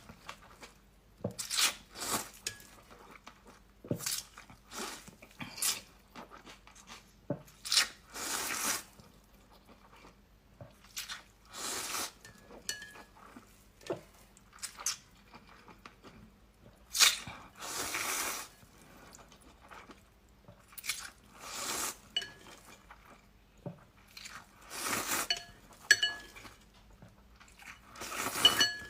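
Close-miked eating: a person slurping glass noodles (vermicelli) and chewing wetly in repeated bursts every second or two, some longer slurps, with occasional light clicks.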